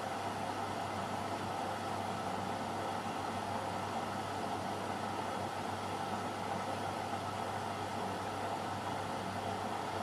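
AEG Lavamat Turbo washer-dryer running mid-cycle: a steady, even machine hum with a low drone underneath, no change in level.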